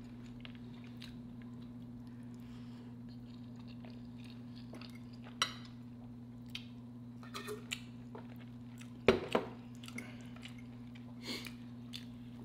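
Close-up chewing and eating sounds, with forks clicking against glass plates every few seconds, the loudest clack a little past the middle. A steady low hum runs underneath.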